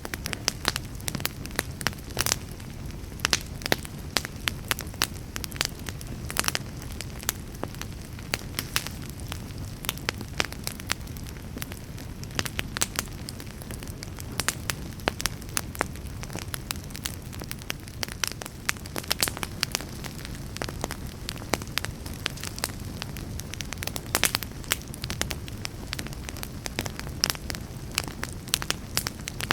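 Fire burning in a fireplace, crackling and popping: many sharp irregular clicks, several a second, over a steady low rush of the flames.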